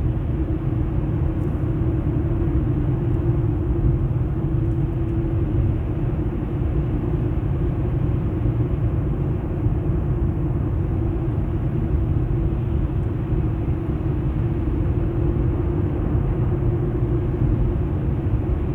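Cabin noise of a car driving slowly: a steady low rumble of engine and tyres, with a steady hum throughout.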